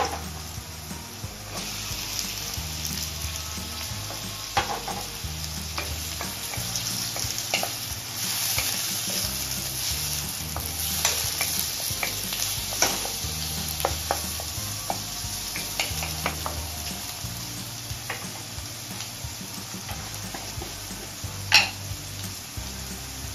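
Chopped onion, garlic, green chillies and tomato sizzling in oil in a wok, stirred with a wooden spoon that scrapes and knocks against the pan now and then. There is one louder knock near the end.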